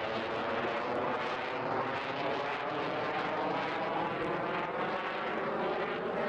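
An aircraft's engines droning loudly and steadily, with a whooshing tone that sweeps up and down.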